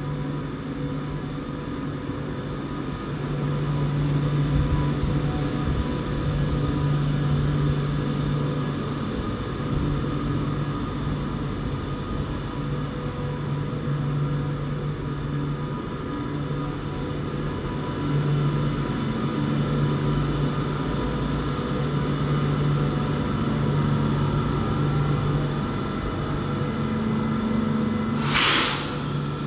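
A train's steady machinery hum, with a strong low tone that swells and eases every few seconds over many fainter steady higher tones. A short, sharp hiss cuts in about a second before the end.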